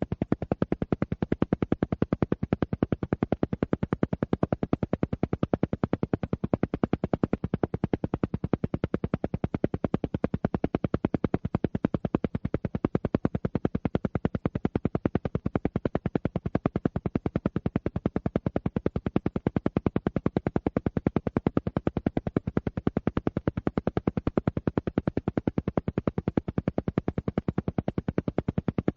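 Alpha-wave brainwave-entrainment audio: a rapid, perfectly even train of pulses, many per second, repeating without change.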